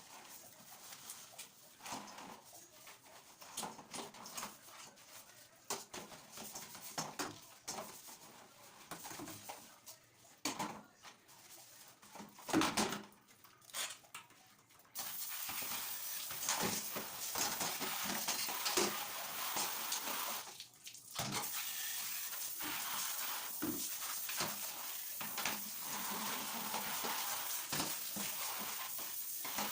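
Hard items clinking and knocking, then from about halfway a steady rush of running water that stops briefly about two-thirds through and starts again.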